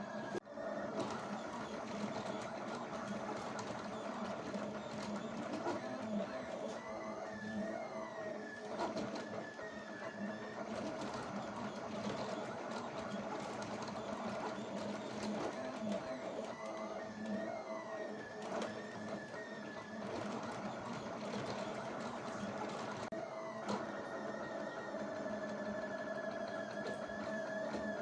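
He3D K200 3D printer running a print: the stepper motors whine steadily, their pitch sliding up and down as the print head changes moves, with a sudden shift in tone about 23 seconds in.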